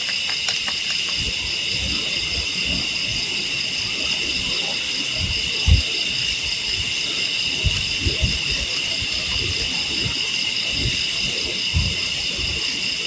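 Night insects chirring in a steady, high-pitched chorus, with scattered low bumps and thuds underneath.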